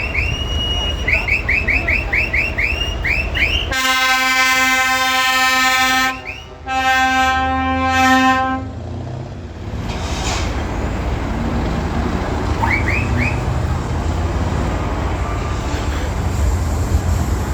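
Air horn sounding two long blasts of about two seconds each, with a short break between them, after a rapid string of short, high, rising chirps over a low rumble.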